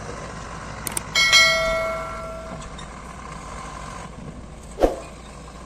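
A loud metallic clang about a second in, ringing on for about a second and a half as it fades, over a steady running engine. A second sharp knock comes near the end.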